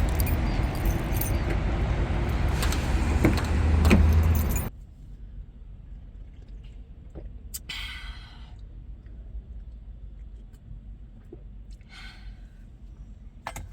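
Keys jangling and clicking over a steady low hum of idling vehicle engines; the engine hum cuts off abruptly about four and a half seconds in, leaving a faint background broken twice by a brief hissing rustle.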